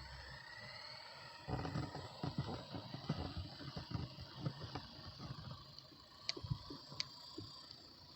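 Electric motor and rotor of a WLtoys V950 RC helicopter spooling up: a whine that rises in pitch, then holds steady as a high hum. From about a second and a half in, irregular low buffeting on the microphone runs under it, with a few sharp ticks near the end.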